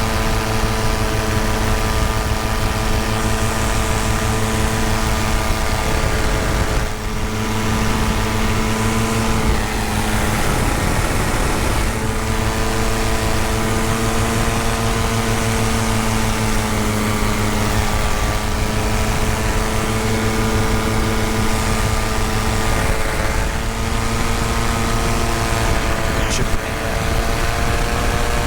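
Paramotor's two-stroke engine and propeller running steadily in flight, with wind rushing over the microphone; the engine eases off briefly about seven seconds in and again around ten seconds.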